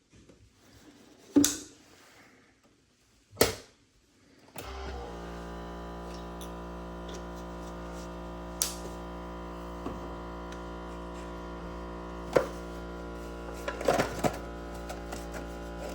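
Two sharp clicks as a single-serve coffee maker is loaded and closed, then the machine starts with a sudden steady hum as it heats and brews, with a few light knocks over it.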